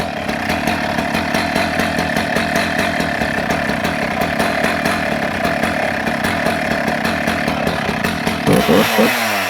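Husqvarna 268 XP two-stroke chainsaw running at a steady idle, then revved in three quick throttle blips near the end, the pitch sweeping up and falling back toward idle.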